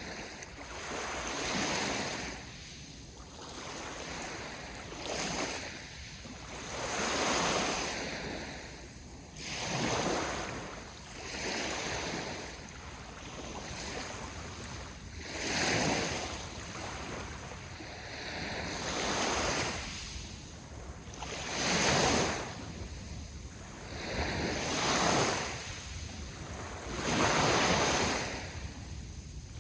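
Sea waves breaking in the surf, the rush of water swelling and falling back in a surge every two to three seconds.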